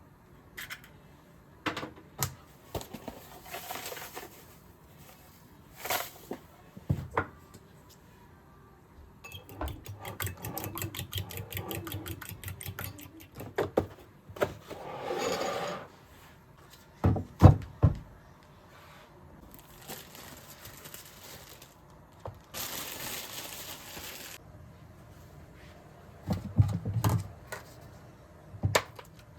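Kitchen work sounds: scattered knocks and clinks of utensils and dishes, a quick run of light taps, and a few short hissing stretches.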